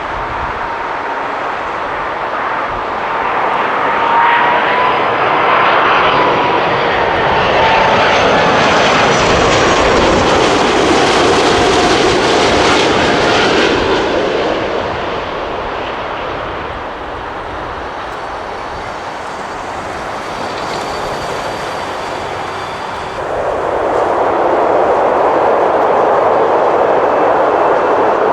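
Jet airliner on approach to land flying past, its engine whine falling in pitch as it goes by, then easing off. Near the end a louder, steady rush of engine noise comes in suddenly.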